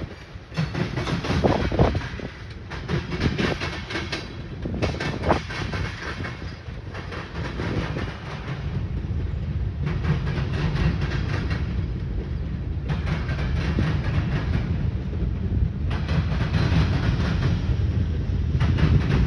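Manifest freight train's cars rolling past on steel wheels, with sharp clacks over the rail joints in the first few seconds, then a steadier low rumble.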